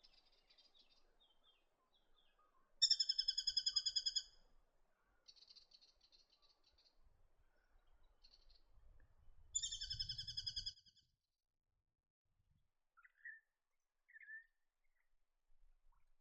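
Brown goshawk calling twice, each call a rapid chattering series of sharp kek-kek notes about a second and a half long, with fainter calls of other small birds in between.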